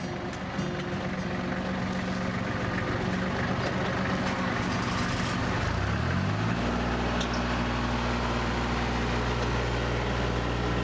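An engine running steadily, then revving up to a higher, steady speed about six seconds in.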